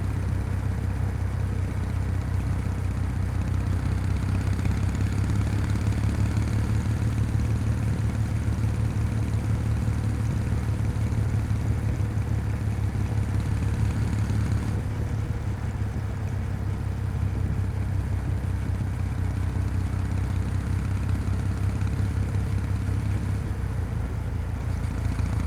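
Kawasaki W800's air-cooled parallel-twin engine running steadily on the move, heard close to its exhaust. About halfway through, the note softens a little.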